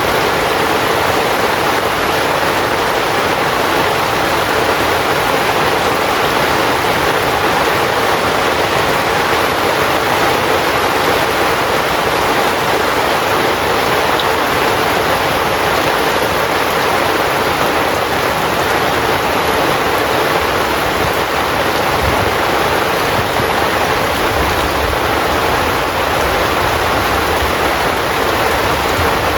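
Heavy rain falling steadily on a tent, an even unbroken hiss.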